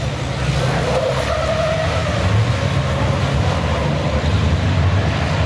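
Racing trucks' diesel engines running hard on the circuit, a steady low rumble.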